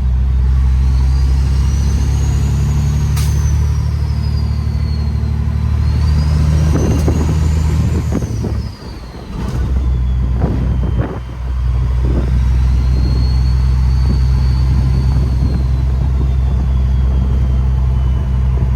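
Detroit Series 60 inline-six diesel in a straight-piped Peterbilt 389 glider pulling steadily, with a turbo whistle that rises and falls in slow swells. The engine drops off briefly twice near the middle, as between gear shifts.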